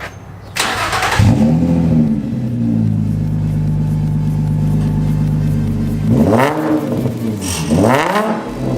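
Infiniti G35's VQ 3.5-litre V6, with muffler delete and test pipes, cranks, catches with a flare of revs, then idles steadily before two quick revs rise and fall near the end. The exhaust runs with no muffler and no cats, only the resonator left in.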